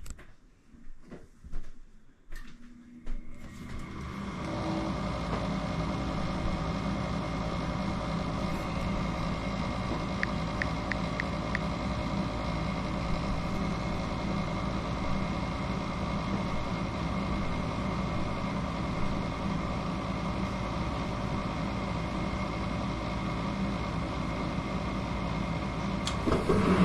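Goodman gas furnace starting up on a heat call: a few clicks and knocks, then its motor comes on about three seconds in and runs with a steady hum, with four quick faint ticks partway through. The start-up shows the furnace working again after the limit circuit plugs were reseated.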